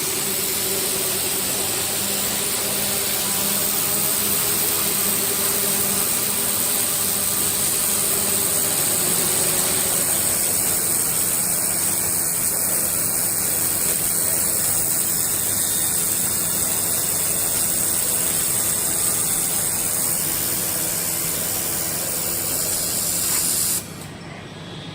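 Laser welding robot cell at work: a steady, loud hiss that cuts off suddenly near the end.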